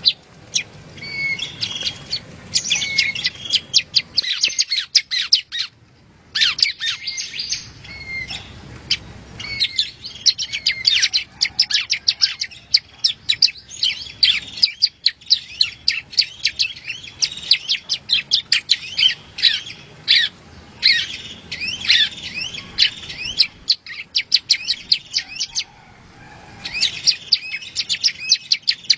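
Yellow-bellied prinia (prenjak rowo) singing: fast runs of sharp, high chirps and quick trills in bouts, broken by short pauses about four seconds in and again near the end.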